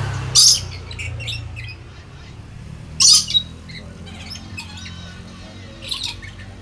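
Lory (nuri parrot) giving loud, harsh squawks: three main outbursts about three seconds apart, the middle one doubled, with smaller chirps between.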